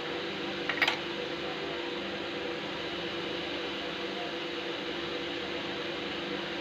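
Old 22 hp desi diesel engine and its flour mill (atta chakki) running steadily, a constant mechanical hum with a short rattle about a second in.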